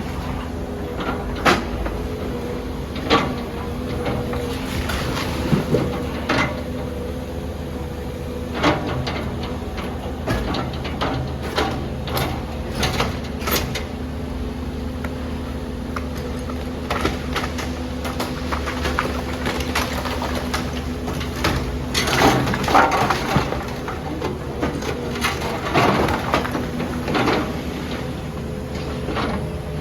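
Demolition excavator's engine running steadily while it breaks up the building, with repeated sharp knocks, cracks and crashes of falling concrete and rubble, thickest about three quarters of the way through.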